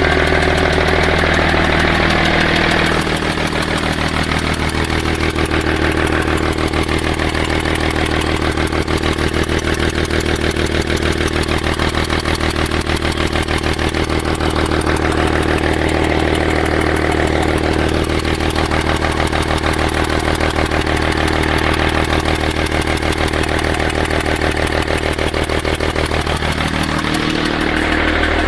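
BMW 530d straight-six diesel engine idling steadily with its intake manifold removed, so the intake ports are open. The note shifts slightly and drops a little about three seconds in, then comes back near the end. It is being run to warm and loosen seized injectors.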